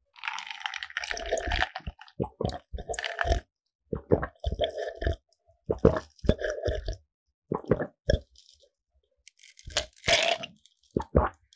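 Close-miked eating of croffle pastry: crisp crunching bites and wet chewing, coming in many short bursts with brief pauses.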